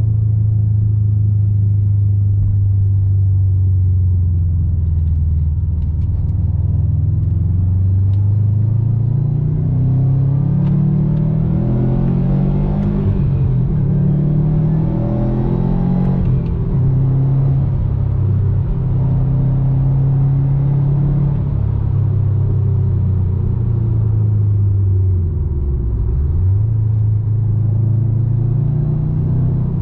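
2019 Subaru WRX STI's turbocharged 2.5-litre flat-four running through an Invidia N1 exhaust while driving. The engine note holds steady, then rises and falls several times around the middle as it revs through gear changes, and dips briefly in pitch near the end.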